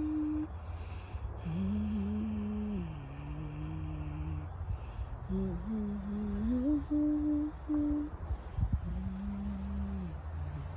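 A person humming a slow, wordless tune in long held notes that step up and down, with short pauses between phrases. A bird repeats short, high, falling chirps throughout, over a low rumble.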